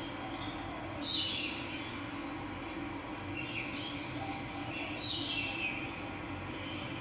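Birds calling over steady running water: two clear calls falling in pitch, about one second and five seconds in, and a fainter one between them.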